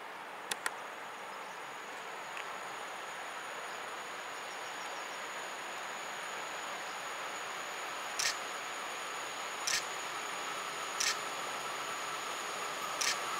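EP07 electric locomotive with its passenger train approaching: a steady running noise that slowly grows louder, with a whine coming in about two-thirds through and four short sharp clicks in the second half. Crickets chirp steadily in the background.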